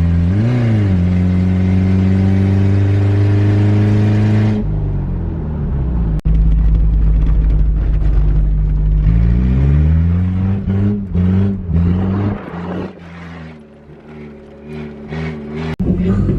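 Vehicle engine running with its exhaust pipe cut off, so it sounds open and unmuffled. It is blipped and held at raised revs, then revved up and down several times before settling back to idle.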